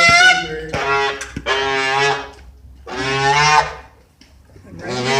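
Domestic goose honking repeatedly: a run of about five loud, nasal honks, each under a second long, with a short pause before the last one.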